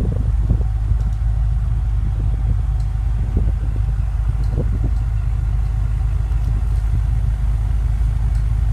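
BMW M5 (F10)'s twin-turbo V8 idling steadily with a low rumble.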